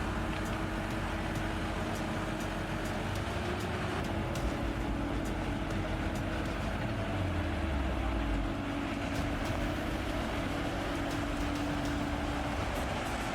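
Heavy earthmoving machine's engine running steadily, its low pitch dropping about seven to eight seconds in as it throttles down.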